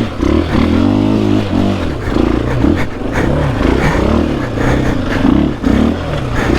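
Dirt bike engine revving up and down as the throttle is worked on a climb, its pitch rising and falling about every second.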